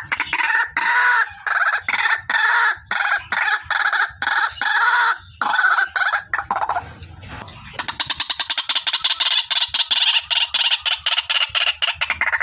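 White-breasted waterhen (ruak-ruak) calling, a female's call used as a trapping lure: loud, rapid repeated notes in choppy phrases, a brief lull about seven seconds in, then a fast unbroken run of notes.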